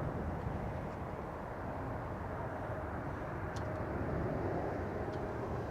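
Steady airport ambience outdoors: distant jet engines running with a low rumble and a faint steady whine.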